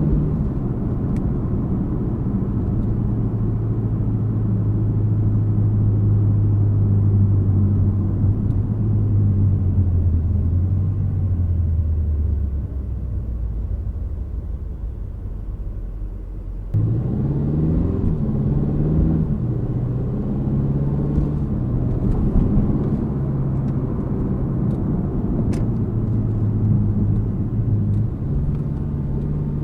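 2025 Aston Martin Vantage's 4.0-litre twin-turbo V8 running at a steady cruise. About halfway through, the engine note falls and quietens as the car slows. A few seconds later it picks up sharply and rises as the car accelerates away, then settles back to a steady drone.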